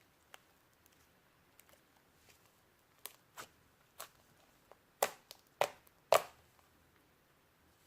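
Slime being pressed and poked by hand, giving a string of sharp clicking pops: a few soft ones, then three louder ones close together about five to six seconds in.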